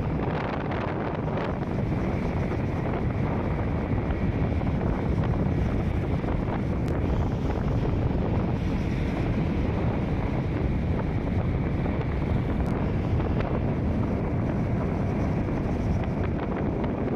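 Wind buffeting the microphone over the steady running noise of a vehicle travelling along a road.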